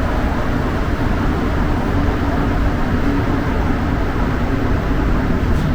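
Rubber-tyred Montreal metro train running between stations, heard from inside the car: a loud, steady low rumble of tyres and running gear with a faint hum.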